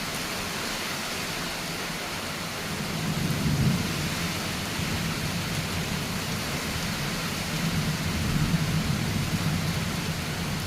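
Steady monsoon rain with thunder rumbling low underneath, swelling about three seconds in and again near the end.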